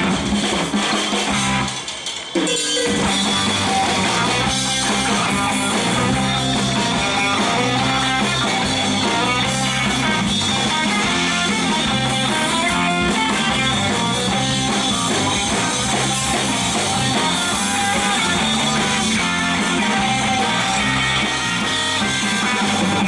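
Live band playing an instrumental passage: strummed and picked guitars over a drum kit with a steady beat, with a brief drop about two seconds in.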